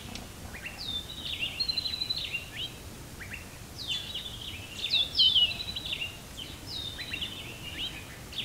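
A songbird chirping and trilling in short phrases every couple of seconds, quick high down-slurred notes and rapid trills, over a faint steady background hiss.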